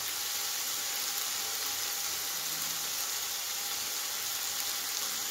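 Chopped vegetables in a spiced tomato masala sizzling in a nonstick pan, a steady even hiss.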